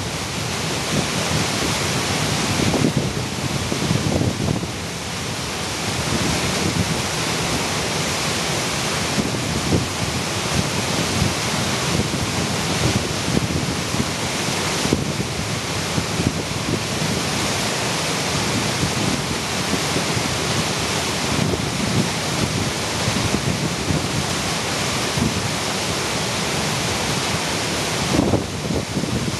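A steady rushing hiss with wind rumbling and buffeting on the microphone.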